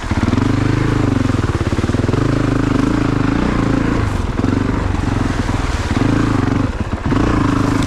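2022 Honda CRF450RX's single-cylinder four-stroke engine under way, its revs rising and falling several times as the throttle is rolled on and off.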